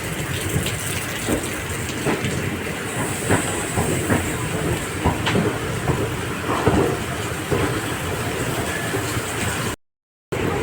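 Express train's ICF passenger coaches running along the track: a steady rumble of wheels on rail with irregular clicks and knocks over the joints. The sound drops out completely for about half a second near the end.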